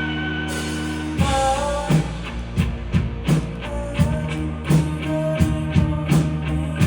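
Rock band playing live, amplified: a held chord rings for about a second, then the drum kit comes in with a steady beat under guitar and melody lines.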